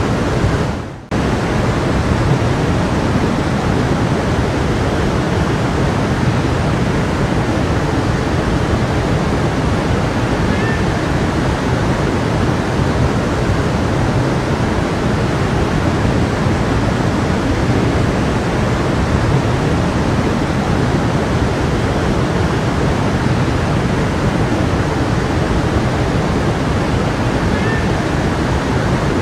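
Stream of running water flowing steadily, dipping briefly and coming straight back about a second in.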